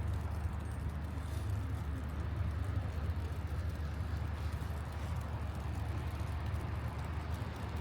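Steady outdoor city background noise: a continuous low rumble under an even hiss, with no distinct events.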